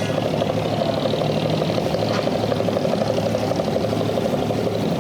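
Abra water taxi's inboard diesel engine running steadily with a fast, even chugging pulse.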